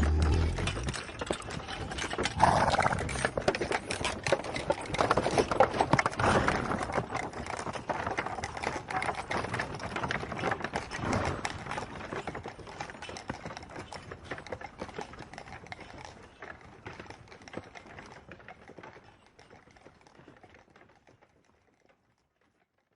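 Horse hoofbeats, a dense fast clip-clop of hooves that fades out over the last several seconds.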